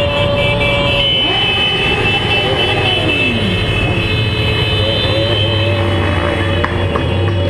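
Motorcycle engines running on the road with the revs shifting; about a second in, one engine note falls away over a couple of seconds.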